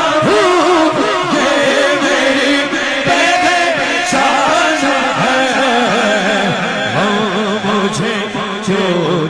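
A male voice singing a long, drawn-out melodic passage of an Urdu devotional song (naat), the pitch wavering and ornamented, with no words clearly sung.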